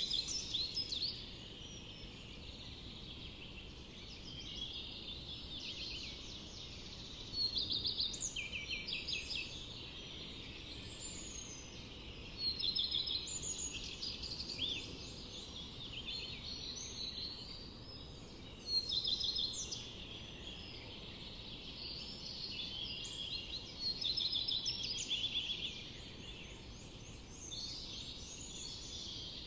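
Songbirds singing in a forest: loud phrases of rapid repeated high notes come about every five to six seconds, with softer chirps and calls between them, over a steady low background hiss.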